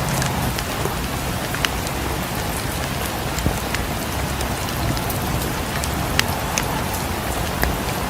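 Steady rain falling, with a few sharp crackles of a wood fire scattered through it.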